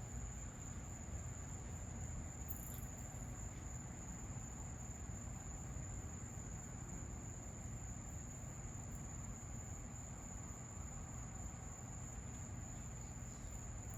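Insects trilling in one steady high-pitched tone, over a faint low rumbling background noise.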